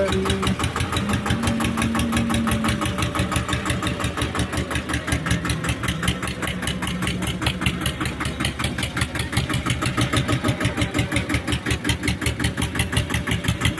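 Tractor diesel engine running steadily at idle, with an even, rhythmic pulsing.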